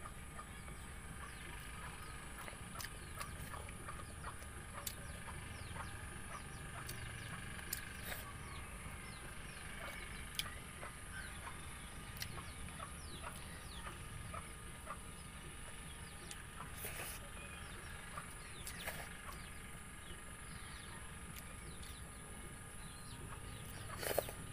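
Close eating sounds on a clip-on microphone: wet chewing and lip smacks as rice and pork are eaten by hand, with small clicks throughout and a louder smack near the end as fingers are sucked clean.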